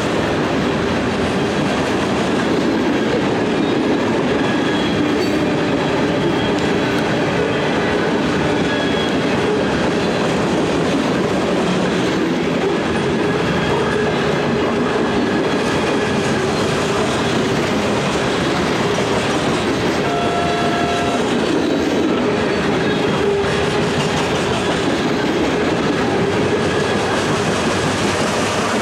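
Freight train cars rolling past, a steady rumble with the clatter of wheels over rail joints.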